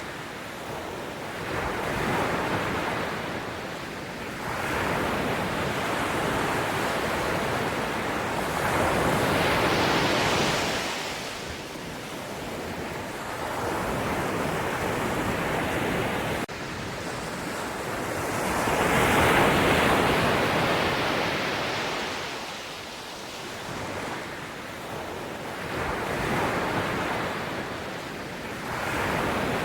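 Sea waves breaking and washing in, a steady rush of surf that swells and falls back every few seconds, the two biggest waves about a third and two thirds of the way through.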